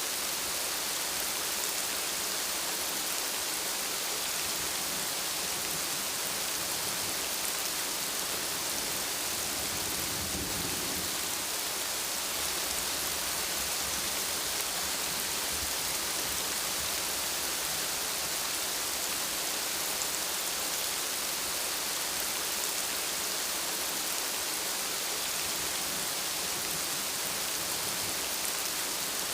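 Steady rain falling, an even hiss of drops on surfaces. About ten seconds in, a brief low rumble of thunder swells under it.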